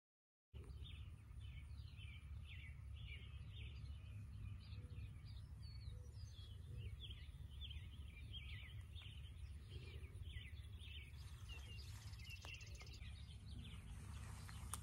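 Birds singing, a rapid run of short, high downward-sweeping chirps over a faint, steady low rumble. The sound starts about half a second in, and the chirping thins out near the end.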